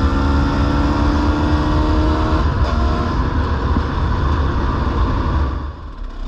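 Dirt bike engine pulling along a road, its pitch rising slowly until a change about two and a half seconds in, then running rougher and easing off near the end.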